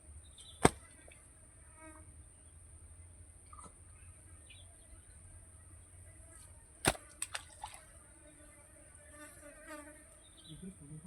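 Two sharp knocks about six seconds apart, the second followed by a few lighter clicks, over a steady high drone of insects and faint distant voices.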